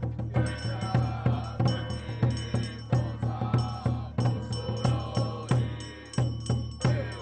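Temple ritual music: drums and other percussion struck in a steady beat, with heavier accents about every second and a half, under a gliding melody line of chanting or a reed wind instrument.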